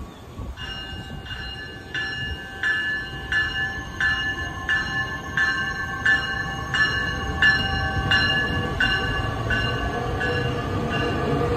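Metra Electric bi-level electric train moving along the platform, its bell ringing steadily about three strikes every two seconds over the rumble of the cars. Near the end a faint electric motor whine rises in pitch as the train gathers speed.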